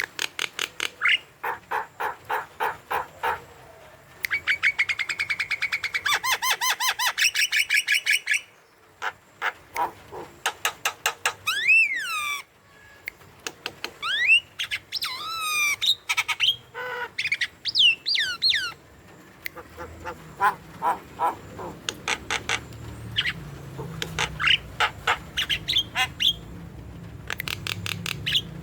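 Javan myna (jalak kebo) in vigorous full song: fast runs of short repeated chattering notes, mixed with whistles that sweep up and down in pitch near the middle.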